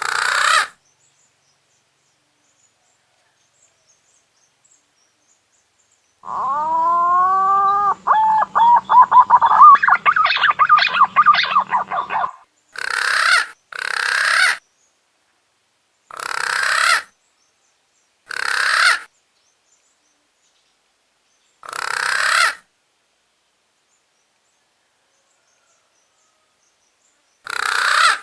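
Punai daun green pigeon lure call: a long whistled phrase that rises and then runs into a fast series of warbling notes. Six short, harsh calls follow, spaced a second or more apart.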